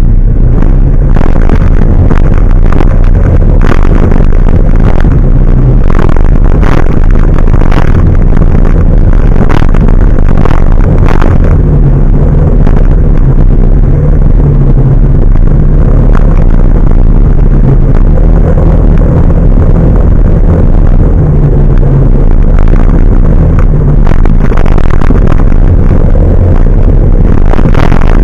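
Large truck's engine running under way, a loud, steady drone whose pitch steps up and down a few times, with a run of rattles and knocks in the first half.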